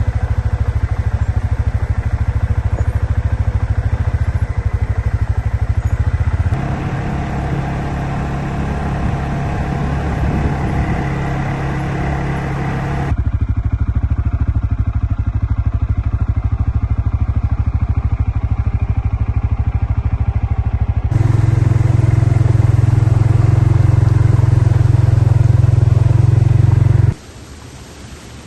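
A motor vehicle's engine running steadily with a low rumble, in several clips that cut abruptly from one to the next. The engine note changes at each cut and drops away near the end.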